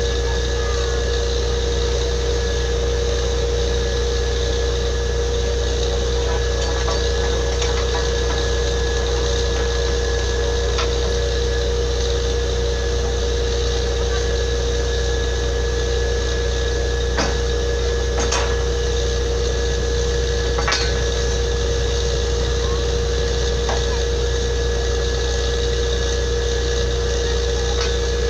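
Borewell drilling rig's machinery running steadily: a constant heavy engine drone with a held whining tone over it, and a few short metallic clanks scattered through.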